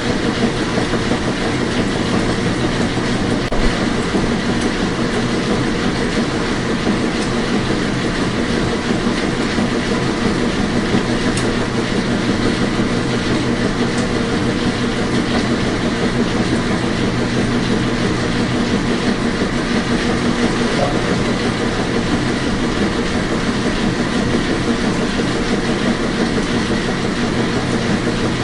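Washing machine running: a steady mechanical hum and rush, with a few faint clicks.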